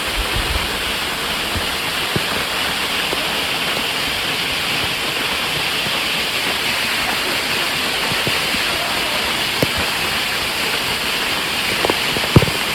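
Waterfall rushing steadily, with a few sharp knocks near the end.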